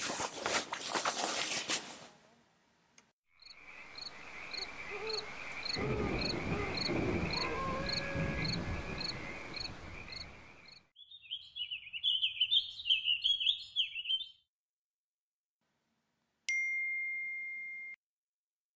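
A sequence of sound effects. A brief rustle is followed by several seconds of steady high chirping with an even pulse about twice a second, then a spell of birdsong. Near the end comes a single phone message ding, held and fading over about a second and a half, which announces an incoming text.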